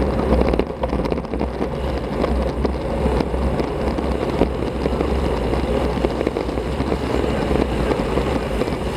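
Steady wind rumble and road noise on an action camera's microphone while riding a road bicycle, with small rattles and clicks throughout.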